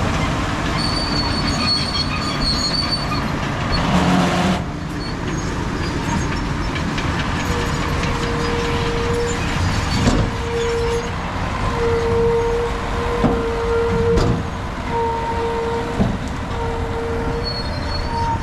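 Crawler bulldozer working: the diesel engine runs steadily while the steel tracks squeal in repeated stretches, with a few sharp metal clanks from the tracks and undercarriage.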